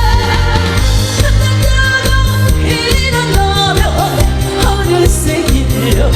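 Live singing of a Korean pop song over an amplified backing track with a steady beat; the voice carries a sustained, wavering melody line.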